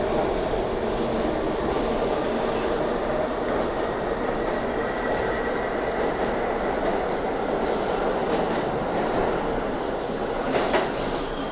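New York City subway train running with a steady rumble, a faint thin wheel squeal in the middle, and a sharp metallic clank near the end.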